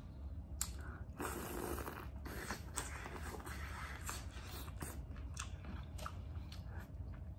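Biting into a sauce-coated boiled corn on the cob, kernels crunching off the cob, then close-up chewing with many short, wet mouth smacks.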